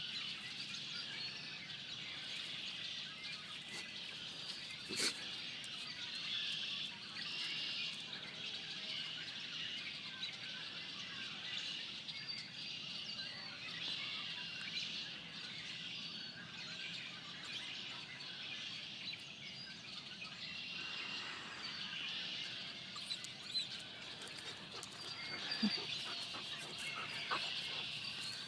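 Small birds chirping and twittering together in a continuous chorus, with a couple of short knocks, one about five seconds in and one near the end.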